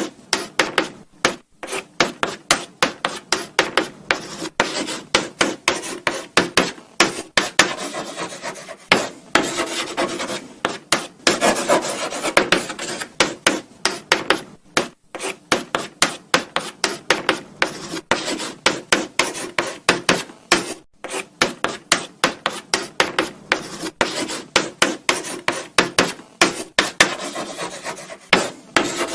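Chalk writing on a blackboard: a steady run of short, irregular scratching strokes with brief pauses between them.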